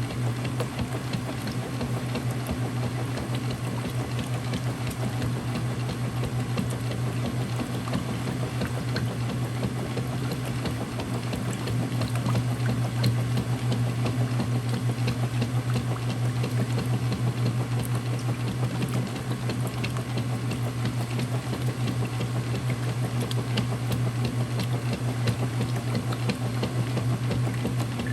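Circa-2000 Whirlpool direct-drive washer running a cycle: a steady motor hum with water churning and splashing in the tub.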